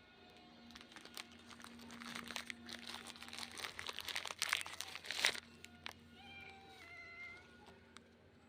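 A cat eating crunchy biscuits: a dense run of crackling crunches for about four seconds, then a short, soft meow.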